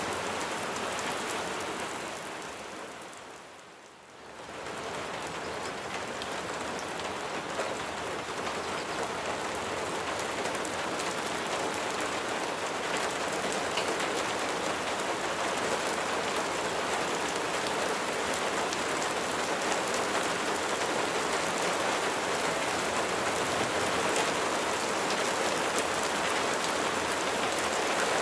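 Steady rain falling on a surface, a dense even hiss of drops. It fades down briefly about four seconds in, then comes back and holds steady.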